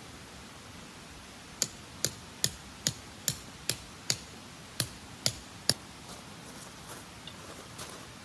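A hammer driving tent pegs into the ground: about ten sharp strikes, a little over two a second, that stop about two-thirds of the way through.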